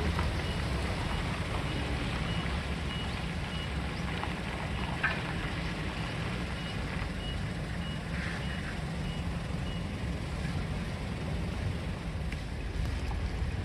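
A truck's reversing alarm beeping at an even rate, about two beeps a second, until it stops around ten seconds in. Under it is the steady low rumble of a truck engine running.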